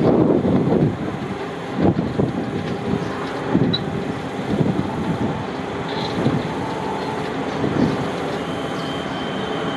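Siemens electric suburban train approaching along the track into the station: a steady rumble with irregular thumps, and a thin, steady high whine that comes in near the end.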